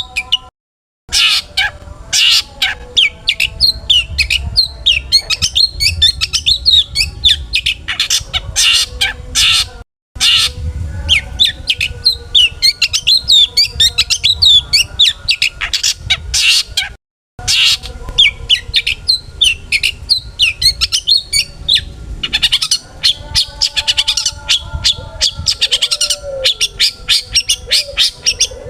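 Long-tailed shrike (cendet) singing a rapid, dense stream of sharp chirps and harsh scolding notes, packed with mimicked phrases of other birds, broken by three short silent gaps.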